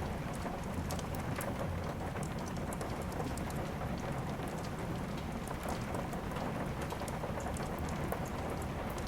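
Steady rain mixed with the crackle of a wood fire in a fireplace: a continuous hiss and low rumble with scattered sharp pops.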